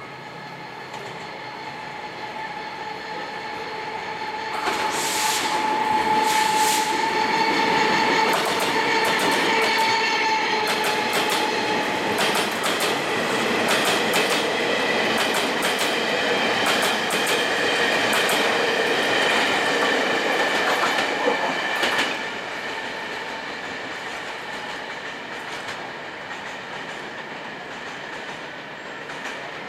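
Taiwan Railways special train running through a station. Its rumble builds over the first few seconds, wheels click over rail joints with steady ringing tones for about fifteen seconds, and the sound falls away suddenly a little past two-thirds of the way in, leaving a fading rumble.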